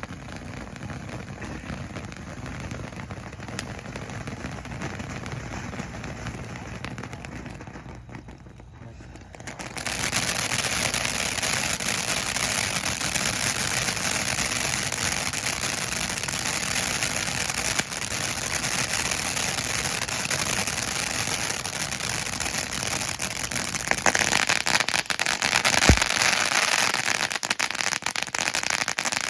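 Cutting Edge 'Amazing' 500-gram fountain firework spraying with a dense crackle. About ten seconds in it turns suddenly louder into a thick crackling hiss, and it builds again near the end, with one sharp pop about twenty-six seconds in.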